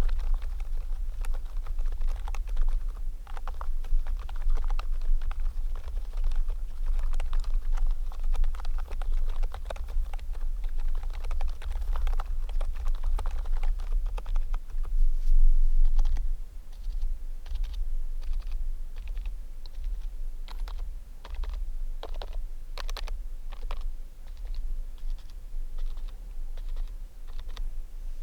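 Typing on a COX XM108 membrane keyboard: fast, dense keystrokes for the first half, then slower, separate key presses. A steady low rumble runs underneath.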